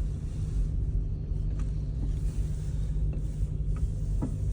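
Car driving, a steady low rumble of engine and road noise, with a few faint clicks.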